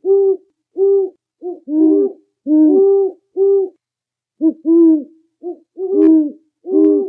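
A bird giving a rapid series of low hooting calls, each shorter than half a second, some rising and falling in pitch, in two runs separated by a short pause about four seconds in.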